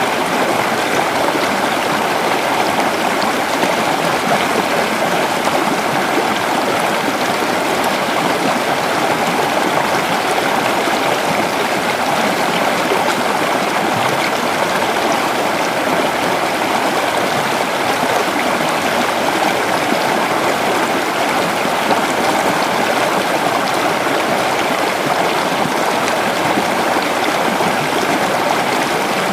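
Creek water running and gurgling over rocks: a steady, even rush that does not change.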